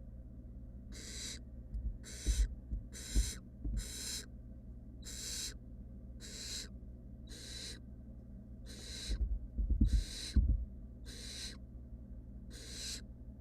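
Barn owl nestlings making their hissing, snore-like begging calls, short rasping hisses repeated steadily about once a second. Low thumps and bumps come twice, around two to four seconds in and again near ten seconds, louder than the calls.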